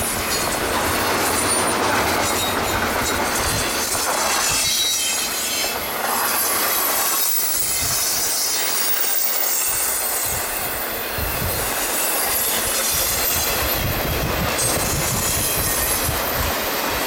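Double-stack intermodal freight cars rolling past on a curve: a steady rumble of steel wheels on the rail with high-pitched wheel squeal from the curve.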